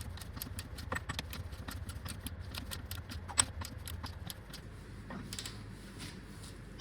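Torque wrench ratcheting on the rear axle nut: a run of quick, irregular metallic clicks, with one louder click about three and a half seconds in.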